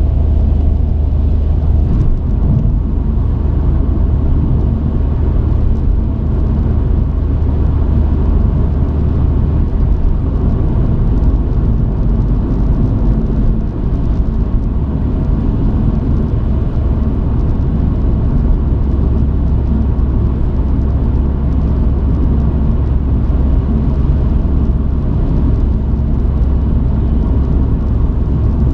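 Truck engine and road noise heard from inside the cab while driving: a steady low rumble whose low drone shifts a little in pitch a couple of times.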